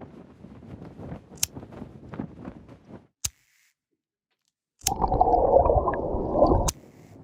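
Sound-effect track: a low crackling rumble with a few sharp clicks, a cut to dead silence, then about five seconds in a loud burst of gurgling, bubbling water that cuts off abruptly after nearly two seconds.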